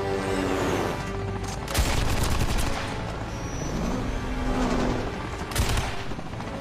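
Two bursts of rapid automatic gunfire in a film action soundtrack: a longer burst about two seconds in and a short one near the end.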